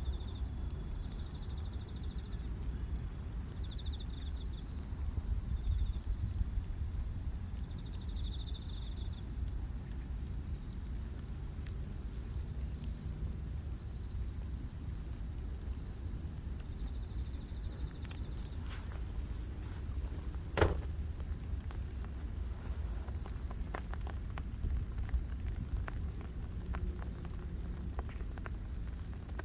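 Crickets and other grass insects chirping: one holds a steady high trill, and another sings pulsed chirps about once a second over a low, steady rumble. A single sharp click sounds about two-thirds of the way through, with scattered faint ticks around it.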